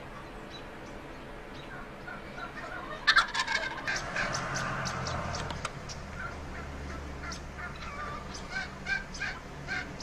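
Male turkeys calling: a quick rattling gobble about three seconds in, then a run of short calls repeated every half second or so.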